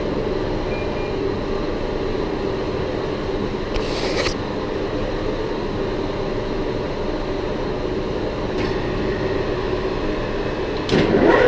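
Metal lathe running with a steady machine hum. Near the end comes a rising whine as it speeds up.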